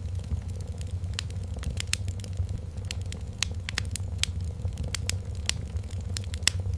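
Wood fire crackling: sharp pops and snaps scattered irregularly over a steady low rumble.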